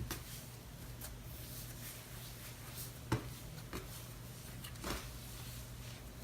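Cloud slime being stretched and squished by hand, giving faint, scattered crackles and pops, the loudest about three seconds in.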